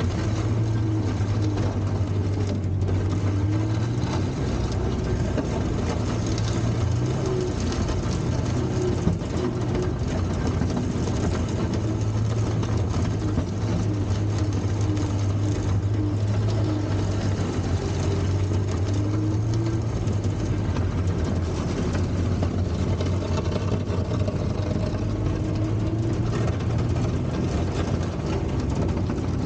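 Volvo four-cylinder petrol engine of a 1960s Kalmar baggage tractor running steadily at low revs, its pitch shifting slightly now and then.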